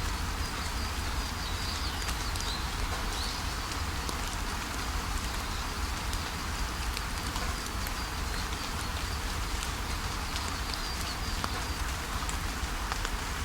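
Steady rainfall with scattered drop ticks over a constant low rumble, and faint high bird chirps here and there.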